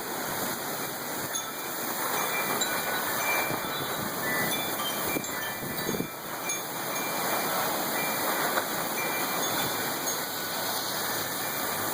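Storm wind and heavy rain, a steady rushing roar that swells and eases slightly in gusts.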